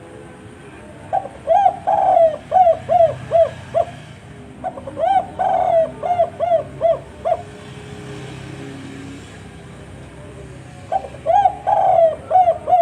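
Spotted dove cooing in three phrases, each a quick run of short repeated hooting notes, the last beginning near the end.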